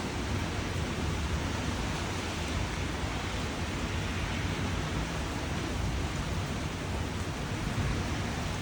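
Steady rain: an even, unbroken hiss with a deep low rumble underneath.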